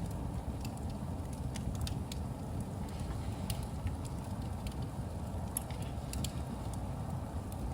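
Wood fire burning in a fireplace: a steady low rumble from the flames with scattered sharp crackles and pops.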